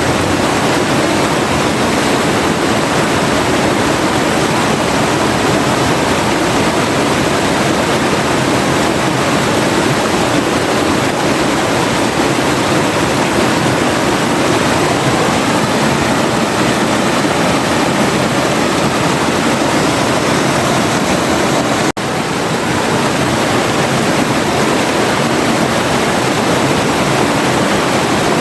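Forest river flowing steadily, a dense, even rush of water, with a split-second break about three-quarters of the way through.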